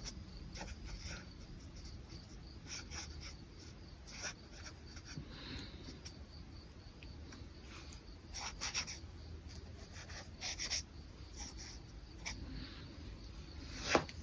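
Brush pen drawing on paper: short, irregular scratchy strokes with pauses between them, and a sharp click near the end.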